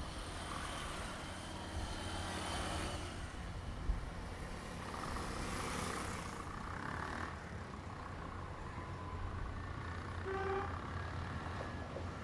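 Motor vehicles running, a steady low rumble with a haze of road or engine noise and a few short faint tones.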